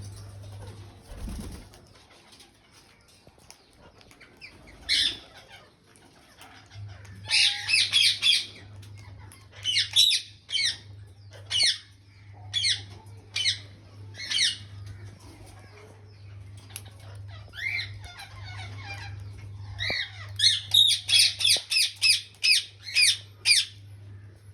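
Parakeets, Alexandrine and rose-ringed (ringneck), giving short, sharp calls in scattered groups, then a fast run of repeated calls near the end. A steady low hum runs underneath.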